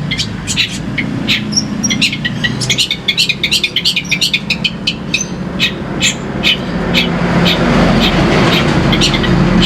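White-rumped shama (murai batu) singing in rapid strings of short, sharp, high chipping notes, over the low steady rumble of a motor vehicle engine that grows louder in the last few seconds.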